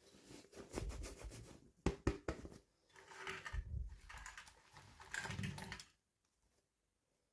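Toy packaging being handled and opened: rustling with light plastic clicks and taps, two sharp clicks about two seconds in.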